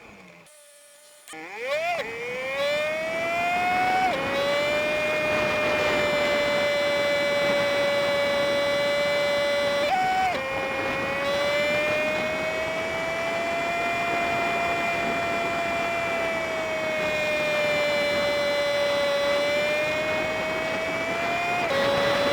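Honda Super Cub 50's small single-cylinder engine running under way, sped up fivefold so it plays as a high, steady whine. After a brief drop-out near the start it climbs in pitch as the bike accelerates, then steps down sharply with gear changes at about four seconds and again near the end.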